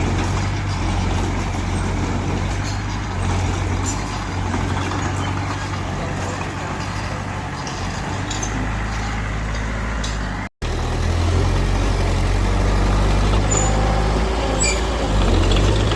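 Heavy diesel engine of earthmoving machinery running steadily, with a deep low drone whose pitch and strength shift as it works. The sound cuts out completely for a split second just past halfway, then the engine comes back louder.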